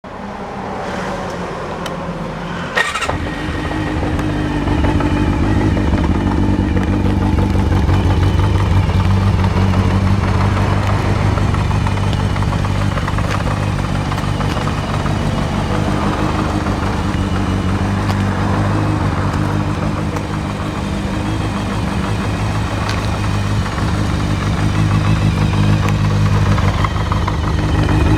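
Kawasaki Zephyr χ's air-cooled inline-four, breathing through a Yoshimura titanium muffler, being started: it turns over for a little under three seconds, catches with a sharp pop, then settles into a steady idle.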